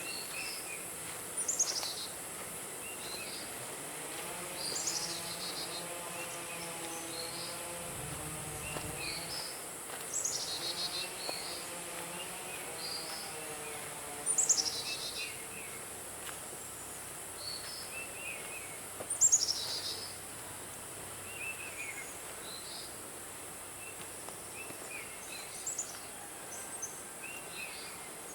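Forest birds calling and chirping over a steady high-pitched insect drone. The loudest calls are quick descending whistles that come back about every four to five seconds, among many shorter, softer chirps.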